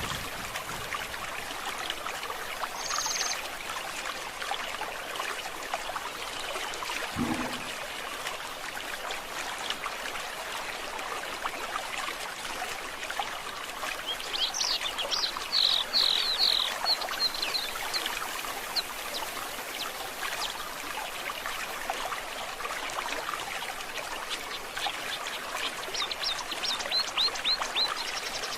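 Forest stream babbling steadily, with birds calling over it: a short high call about three seconds in, a rapid run of chirps around the middle, and another quick series of notes near the end. A brief low sound comes about seven seconds in.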